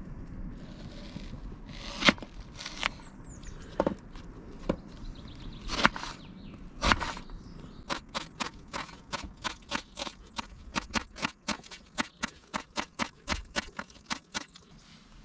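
Knife chopping on a cutting board: a few separate sharp knocks, then about halfway through a quick, even run of chops, about four a second, that stops near the end.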